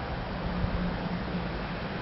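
Wind noise on the microphone, with a low steady hum underneath.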